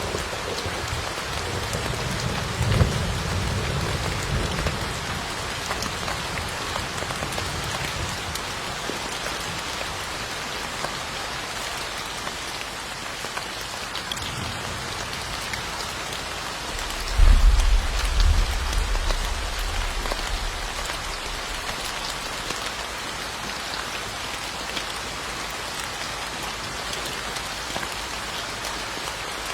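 Steady rain falling, with two low rumbles of thunder: a weaker one near the start and a louder one a little past halfway.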